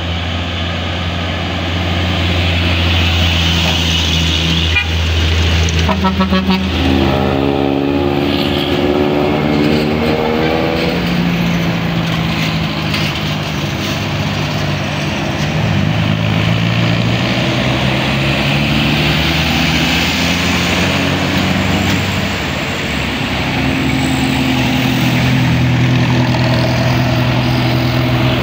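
Heavy vehicles, buses and trucks, driving past with engines running and changing pitch as they pass. A horn sounds for about four seconds, starting about six and a half seconds in.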